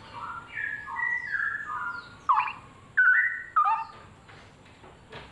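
Straw-headed bulbul (cucak rowo) singing: a run of liquid whistled notes stepping up and down for about two seconds, then three louder short phrases, after which the song stops.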